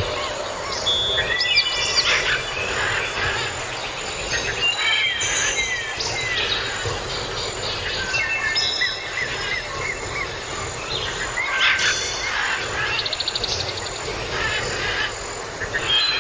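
Several small birds chirping and whistling in overlapping short calls, with a quick rapid trill late on, over a steady background hiss.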